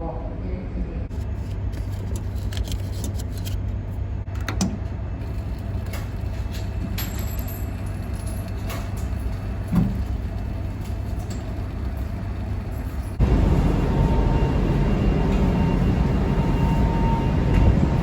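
Steady low drone of a ferry's engines, with a few light knocks. About 13 seconds in it jumps abruptly to a louder rumble with more hiss.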